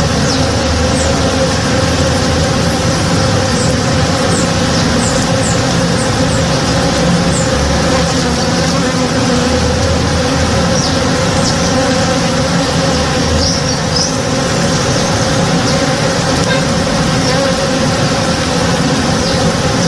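Many honey bees buzzing steadily as they forage on the flowers of a blooming tree, a dense, unbroken swarm hum. Short high chirps sound now and then over it.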